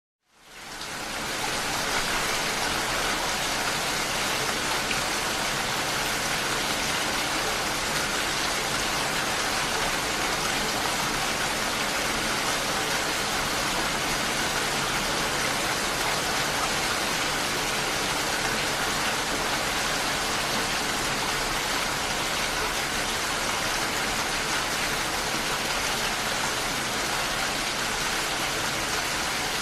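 Steady rain, a dense even hiss, fading in from silence over the first second or two.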